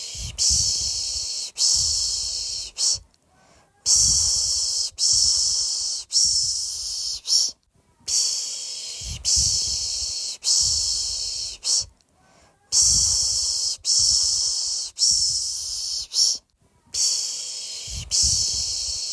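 A person shushing a baby to sleep with a soothing 'shh' sound, in rhythmic runs of about four hisses of roughly a second each, separated by short pauses.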